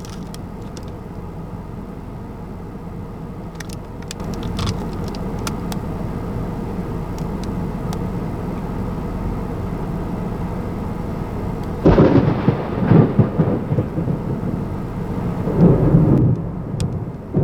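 Thunder during a tornadic thunderstorm. A sudden loud crack and rumble comes about twelve seconds in and a second rumble swells near the end, over a steady background noise.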